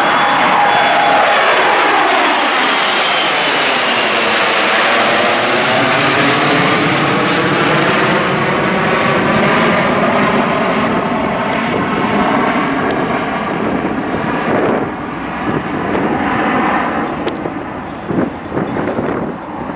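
Bombardier business jet passing low overhead: a loud jet engine whine that drops in pitch as the aircraft goes by, leaving a rushing jet noise that slowly fades and grows uneven near the end.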